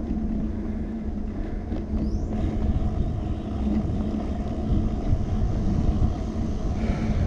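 Steady low rumble of wind buffeting a handlebar-mounted action camera's microphone, mixed with bicycle tyres rolling on the road, during a ride. A brief high rising squeak comes about two seconds in.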